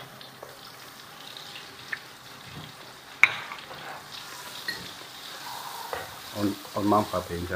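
Butter sizzling in hot oil in a steel wok on a gas burner while a metal spatula stirs it, with one sharp clack of the spatula against the wok about three seconds in.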